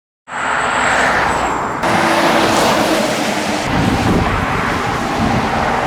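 Road traffic on the A487 passing close by, a loud steady rush of vehicles, with an abrupt change in the sound a little under two seconds in.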